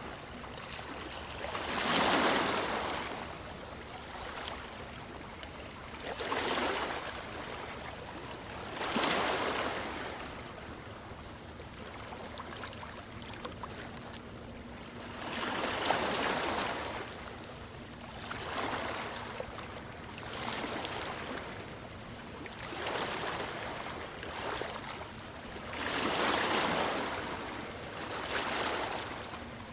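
Ocean waves breaking on a beach, each surge swelling up and dying back every few seconds, about nine times, with the loudest breaks about two seconds in and near the end.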